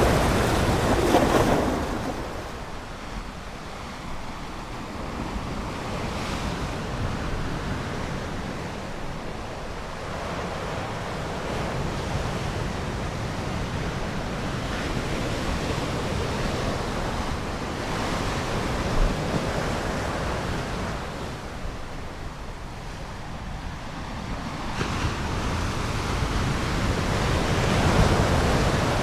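Ocean waves breaking and washing ashore. A loud surge at the start eases into a steady hiss, and the next wave builds to a surge near the end.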